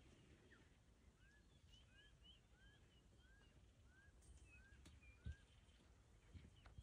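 Quiet outdoor ambience in which a bird calls a steady series of short arched notes, about two a second, with fainter higher chirps among them. A single soft thump comes about five seconds in.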